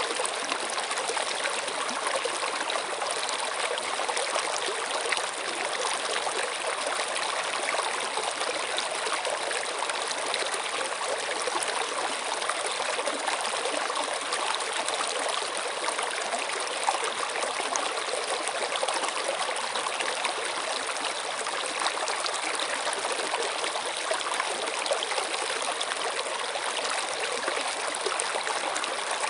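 Flowing stream of water, a steady rushing and trickling with no break.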